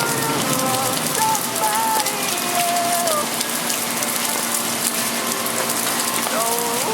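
Steady rain falling and pattering on hard surfaces. Short wavering squeal-like tones come through in the first three seconds and again near the end.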